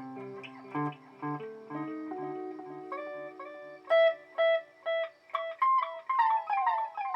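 Electric guitar played through a BOSS DD-8 digital delay pedal in Warp mode: picked notes each trail a string of repeating echoes, and in the last second or so the repeats slide down in pitch.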